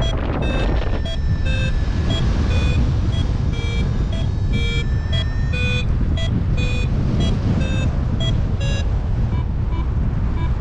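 Paragliding variometer beeping in short pitched pips, two to three a second, the climb tone that signals rising air. Heavy wind buffets the microphone throughout, and the beeps grow fainter near the end.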